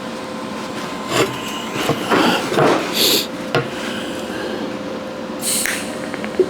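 Arc welding a seam in quarter-inch steel plate: a steady crackling arc with a few louder, irregular spits along the way.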